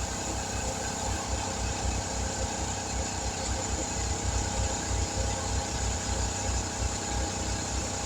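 A motor running steadily with a low, even throb.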